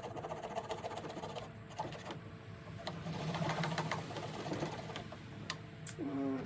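Fast, fine clicking and rattling of hand work on the stripped-down two-stroke engine of a leaf blower, getting louder for a second or so midway.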